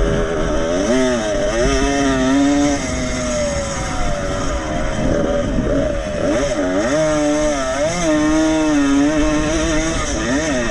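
Vintage motocross motorcycle engines running at racing speed, their pitch climbing and dropping again and again as the throttle opens, shuts and gears change, with more than one engine heard at times.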